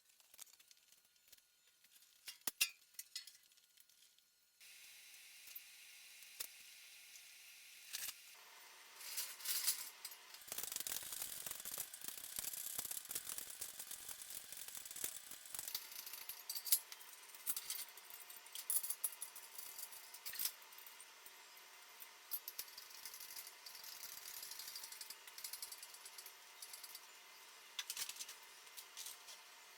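Scattered clinks and rattles of metal tools and parts being handled, over a steady hiss that sets in about five seconds in.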